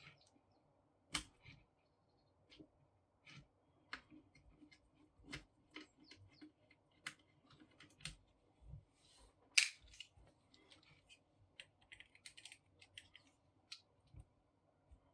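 Irregular clicks, taps and knocks of hard plastic parts and small tools being handled while working inside a paper laminator's roller and gear mechanism, with a brief scraping rattle a couple of seconds after the loudest knock.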